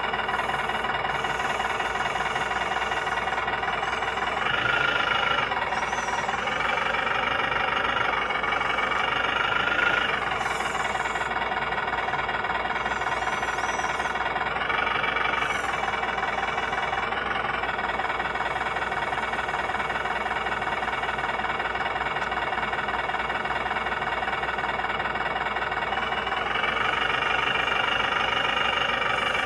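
Engine sound of a 1/14-scale RC semi truck and loader, running steadily at idle and swelling briefly a few times.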